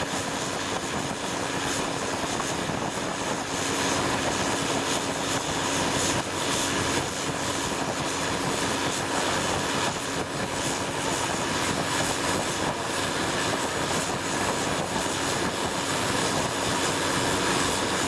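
Longtail boat engine running steadily at cruising speed, a constant drone with no change in pitch.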